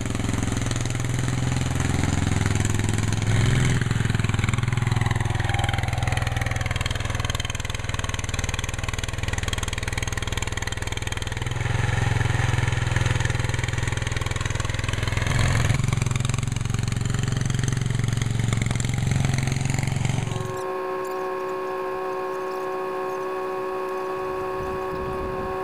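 An engine running under changing load, its pitch sweeping up and down, until it cuts off abruptly about twenty seconds in. A steady whine of a few tones follows and dips in pitch near the end.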